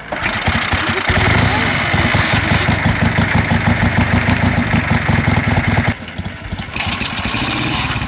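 Old motorcycle engine running close by, with rapid, even firing pulses. It grows loud about a second in and drops away just before six seconds.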